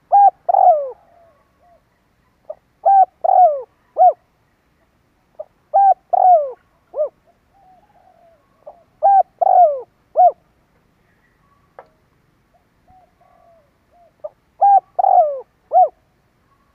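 Spotted dove cooing: five phrases of three or four coos each, about three seconds apart, with soft quiet notes between. It is a decoy dove's call, used to provoke and draw in wild doves.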